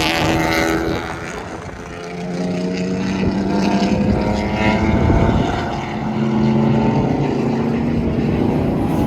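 Racing car engine running hard on a track, its pitch holding steady, dropping briefly a couple of times and then climbing again as it works through the revs.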